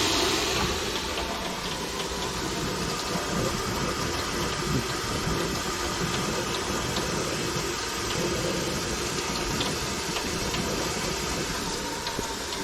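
Coffee maker running as a pot brews: a steady hiss over a low hum, with a few faint ticks.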